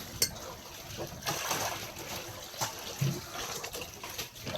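Water splashing and trickling, with a sharp click about a quarter of a second in.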